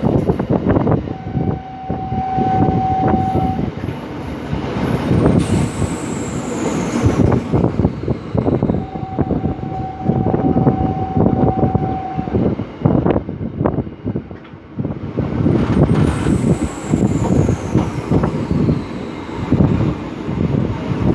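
A train running on the rails, with a steady rumble and a dense clatter of wheels over the track. A long steady tone sounds twice.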